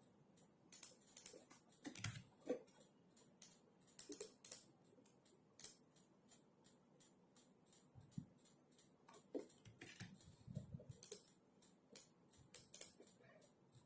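Faint typing on a computer keyboard: irregular runs of key clicks with brief pauses, and a few heavier keystrokes mixed in.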